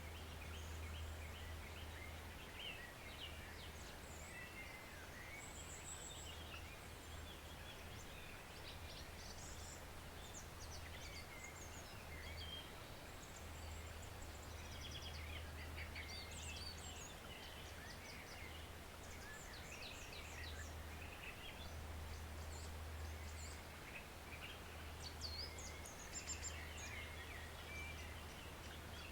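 Faint steady rush of a woodland stream, with several birds chirping and trilling throughout. A low rumble comes and goes underneath.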